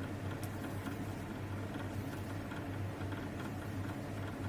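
Steady low background hum with faint room noise, and a faint click about half a second in.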